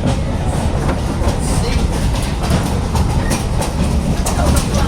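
Passenger train car rolling along the track: a steady low rumble with irregular clicks and rattles from the wheels on the rails.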